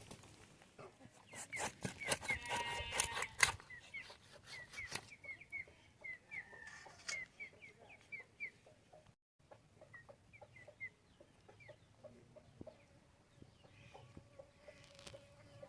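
Chickens calling, with a long run of short, high chirps. A burst of clattering knocks comes about two to three seconds in.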